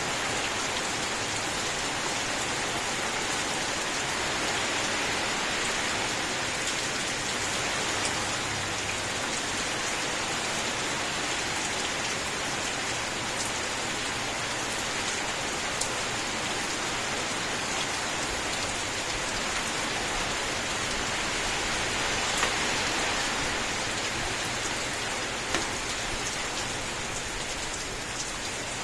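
Steady rain falling, an even hiss of drops with a few louder single drop hits standing out about three-quarters of the way through.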